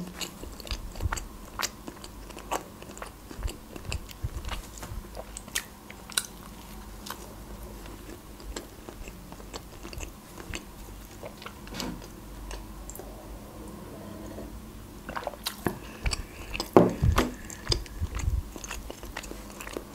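A person chewing a mouthful of khachapuri cheese bread, with small crunches of the crust and wet mouth clicks. There is a louder run of chewing and crunching about three quarters of the way through.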